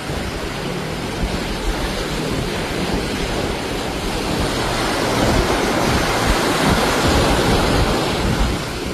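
Ocean surf washing onto a beach, with wind rumbling on the microphone. The surf swells louder through the middle and eases off near the end.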